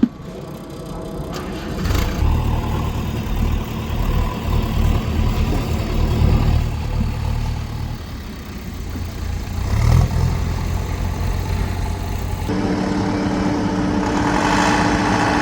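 An engine running, with a low hum that changes about twelve and a half seconds in to a steadier, higher-pitched drone.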